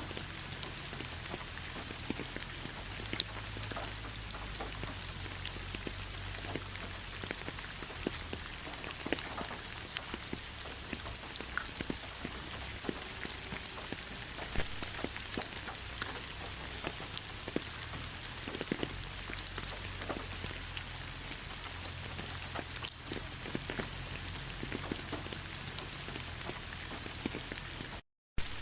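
Steady rain pattering on a bed of fallen leaves: an even hiss with many separate drop ticks. The sound cuts out for a moment near the end.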